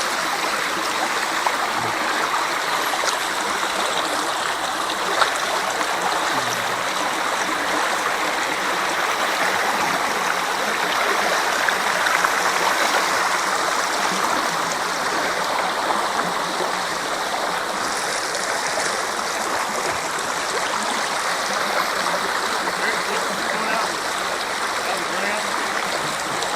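Spring water boiling up out of the ground and running off in a steady, gurgling rush.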